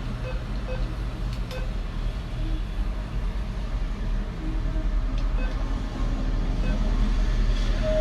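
Steady low rumble of motor traffic and road noise.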